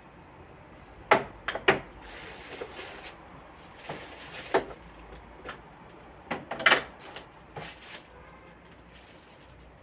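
Items and containers being put back into a refrigerator: a series of irregular knocks and clunks of objects against shelves and drawers, in clusters about a second in, in the middle and again near the end.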